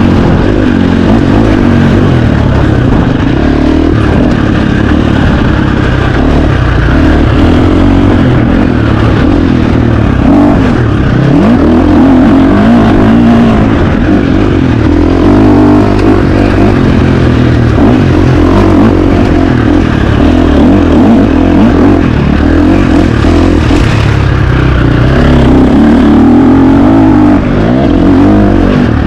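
KTM 350 XC-F dirt bike's single-cylinder four-stroke engine run hard, its revs rising and falling continuously as it is throttled and shifted.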